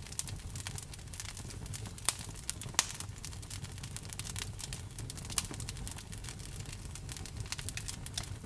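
Wood burning in a campfire, crackling with irregular snaps and a few sharper pops, over a low steady rumble of the flames.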